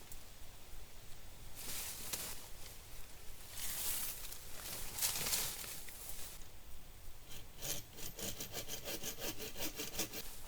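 Hand saw cutting into a wooden log. A few separate strokes are followed, from about seven seconds in, by a fast even run of short strokes, starting a score mark in the log.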